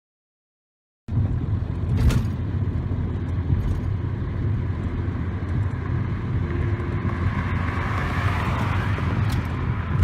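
Car engine running steadily with a low hum, starting abruptly after about a second of silence, with a short click about two seconds in.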